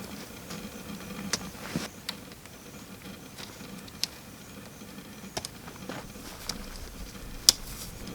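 Scattered sharp snaps of twigs and forest litter at irregular intervals, the loudest one near the end.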